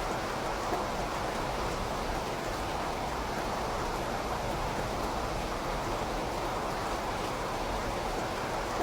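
Steady rain: an even, unbroken hiss with no single drops or other events standing out.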